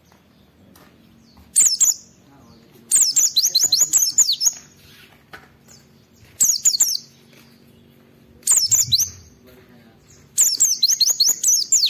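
White-eye (pleci) singing in short bursts of rapid, high chirping notes that fall in pitch, about five phrases with short pauses between them. This is the bird's challenge song, meant to provoke other white-eyes into answering.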